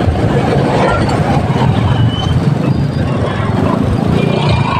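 Motorcycle engine running steadily while riding, with a constant low rumble and no marked change in pace.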